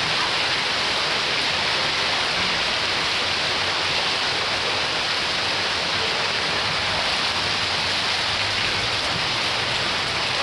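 Heavy rain mixed with pea- and marble-sized hail pouring down steadily, a dense, even hiss of falling drops and stones.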